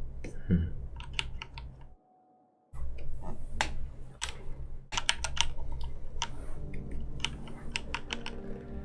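Computer keyboard and mouse clicks, irregular and quick, over a low steady hum, as the animator works the controls; the sound drops out briefly about two seconds in. Faint music begins near the end.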